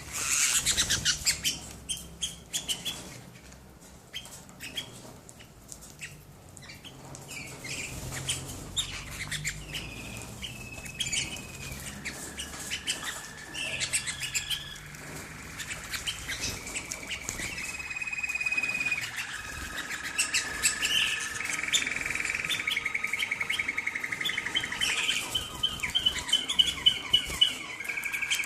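Canaries singing: short chirps and sharp clicks at first, then, from about ten seconds in, long held whistled notes and rapid rolling trills.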